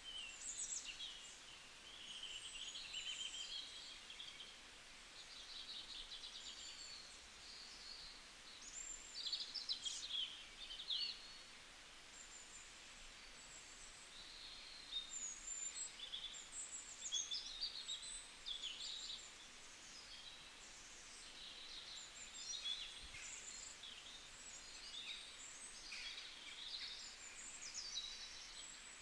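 Birds chirping and trilling, many short high calls overlapping, over a faint steady background hiss.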